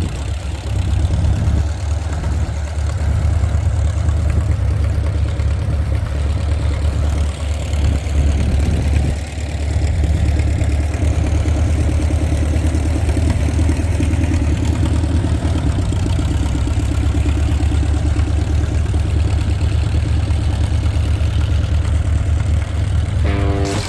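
Tractor engines running at a steady idle, a continuous low engine drone. Guitar music comes in right at the end.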